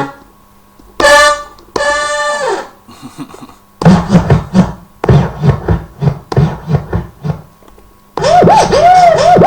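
Roland M-DC1 synth module playing dance patches triggered from pads: two short pitched hits that slide down in pitch, then a run of rhythmic percussive hits about three a second, and from about 8 seconds in a dense sound with repeated swooping pitch like record scratching.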